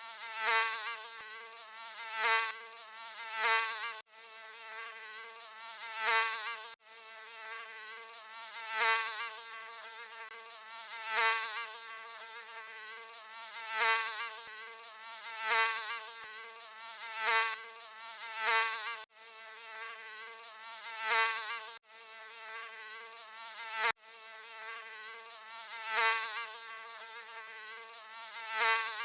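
Mosquito buzzing: a high, wavering whine that swells louder and fades about every two seconds, as if the insect were circling close by. It cuts out for an instant a few times.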